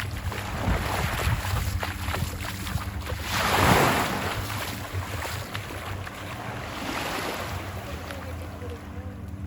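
Ocean surf washing up the beach, with one wave breaking loudest about a third of the way in, over a low wind rumble on the microphone.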